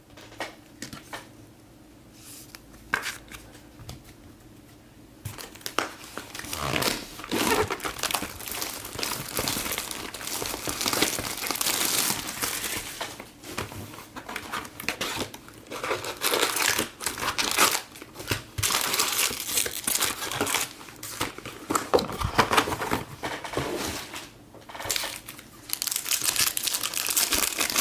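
Foil trading-card pack wrappers crinkling and tearing as packs are opened. A few light clicks at first, then continuous irregular crinkling from about six seconds in.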